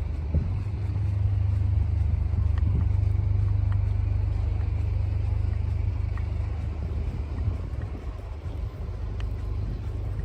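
Blizzard wind buffeting the microphone: a steady, heavy low rumble that eases a little after about eight seconds.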